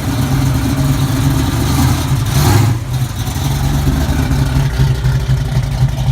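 Car engine idling with a steady low rumble, revved briefly about two and a half seconds in.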